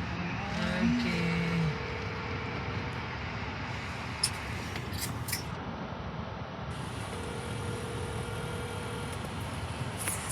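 Steady vehicle running noise heard from inside a car, with a brief voice early on and a steady hum-like tone that comes in twice for a couple of seconds.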